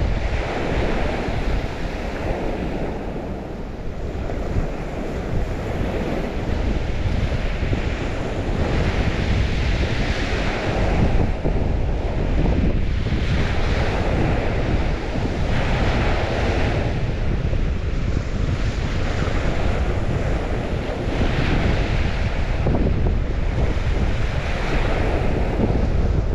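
Waves washing in and out, with hissing swells that rise and fall every few seconds, over a steady low rumble of wind buffeting the microphone.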